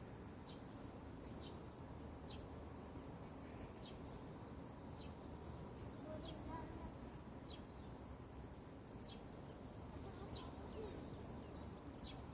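A bird repeating one short, high call about once a second, over a steady high hiss.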